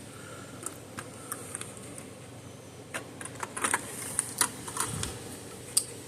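Irregular light clicks and taps of small tools and parts being handled on a workbench, sparse at first, then a quick cluster from about three to five seconds in.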